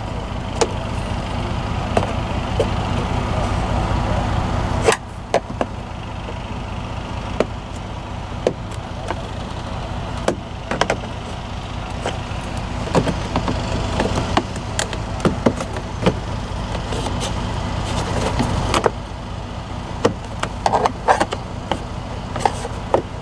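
Scattered clicks and taps of a flathead screwdriver prying at the plastic trim around a semi truck's door window switch, over a steady low rumble of the idling truck. The rumble drops abruptly about five seconds in and comes back near the end.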